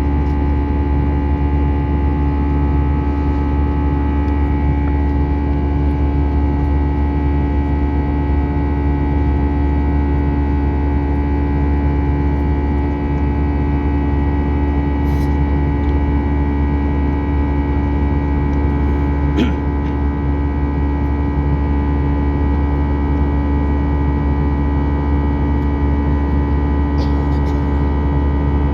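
Airbus A320 cabin noise in flight after take-off: a constant low roar with steady engine tones over it. A few faint clicks occur partway through.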